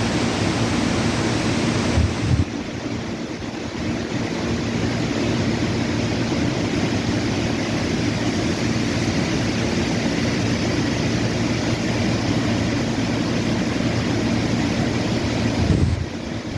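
Wind blowing steadily, with wind buffeting the microphone as a low rumble.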